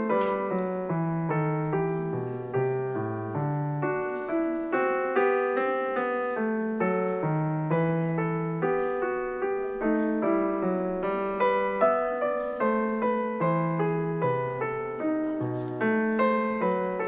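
Background piano music: a steady flow of gently struck notes over a slowly moving bass line.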